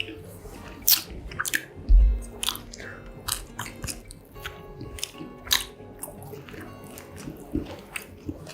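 Close-miked biting and chewing of a mozzarella corn dog, its fried batter crust crunching in many sharp, irregular crunches.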